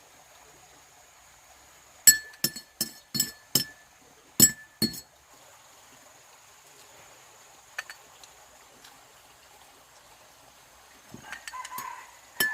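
Hard glass or crockery items clinking together: a quick run of about eight sharp, ringing clinks, then a few faint ticks.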